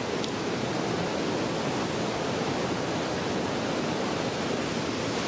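Waterfall in a rocky gorge: a steady, unbroken rush of falling water.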